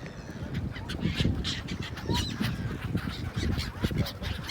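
A flock of birds calling over one another, many short calls in quick succession.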